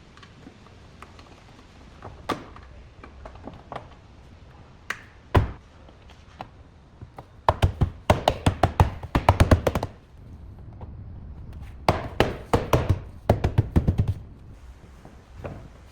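Scattered single taps, then two quick runs of rapid, sharp taps and knocks: the first about seven and a half seconds in, lasting a couple of seconds, and the second about twelve seconds in.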